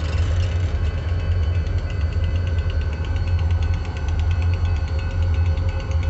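Diesel locomotive engine running steadily with a low rumble, and a faint, even ticking above it.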